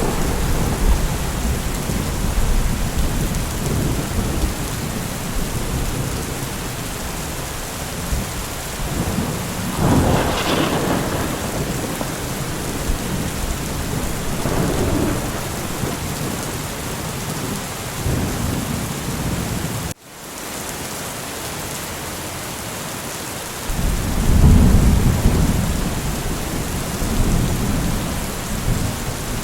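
Steady heavy rain with low rolling thunder that swells about ten seconds in and again near the end. The sound cuts out for an instant about two-thirds through, then the rain resumes.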